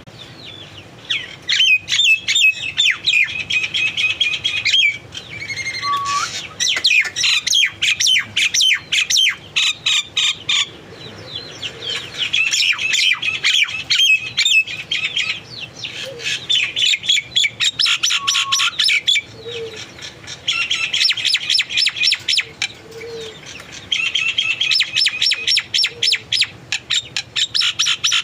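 Small birds chirping and twittering in rapid trills, in bouts of a few seconds with short pauses between them.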